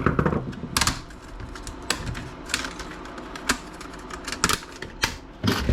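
Plastic snap clips of a laptop screen bezel clicking as the bezel is pried and popped apart: a string of sharp, irregularly spaced plastic clicks, with some handling knocks at the start.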